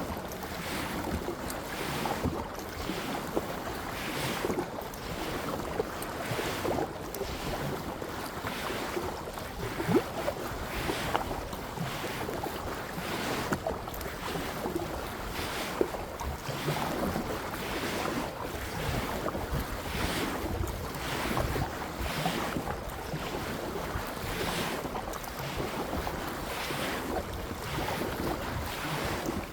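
Kayak paddle strokes swishing and splashing in the water about once a second, with wind buffeting the microphone.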